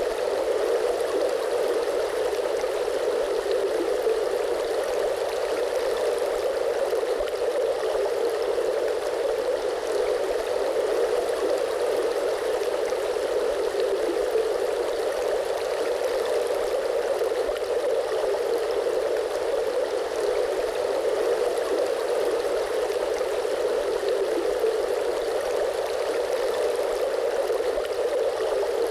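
Steady, unbroken rush of flowing water, an even low-pitched hiss with no splashes or changes.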